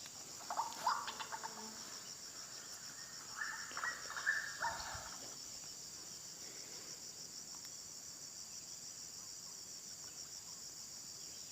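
High-pitched, steady pulsing trill of insects, with a few brief louder sounds in the first five seconds.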